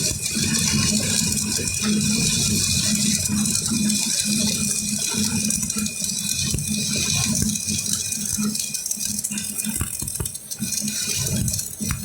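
Electric arc welding crackling and sizzling steadily, with a low hum that pulses on and off underneath.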